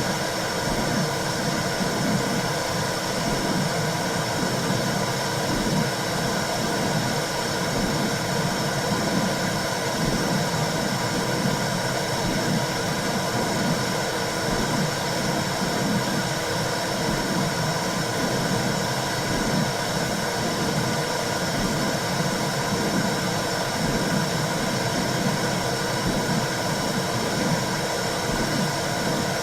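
Womb sound for soothing a baby: a steady rushing, whooshing noise with a low rhythmic pulsing under it.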